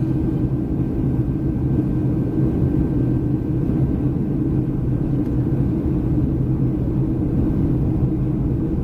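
Steady cabin noise of a Boeing 737-300 airliner in flight: a constant low drone of engines and airflow with a steady hum underneath.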